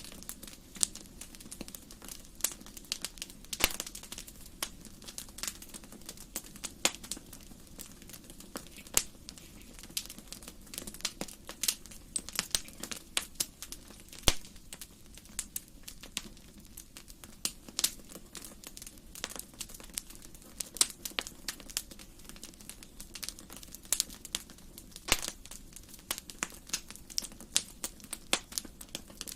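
Wood fire burning in a fireplace, crackling with irregular sharp pops several times a second over a steady low rush of the flames.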